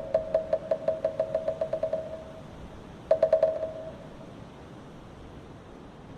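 A moktak (Korean Buddhist wooden fish) is struck in a rapid roll that speeds up and fades out over the first two seconds. About three seconds in comes a short burst of about four quick strikes, and after that only a soft steady background hiss.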